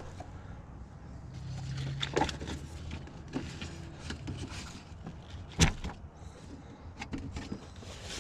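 Plastic storage totes and buckets being handled and loaded, scattered knocks and clatters over a low vehicle rumble, with one loud sharp thump about five and a half seconds in.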